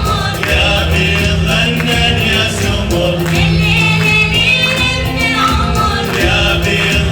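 A choir singing a song to steady hand-percussion accompaniment.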